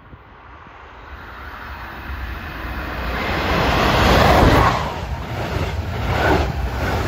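A red diesel passenger train approaching and passing close by on the track. The rail noise builds steadily for about four seconds, then the train rolls past with a pulsing rush as its cars and bogies go by.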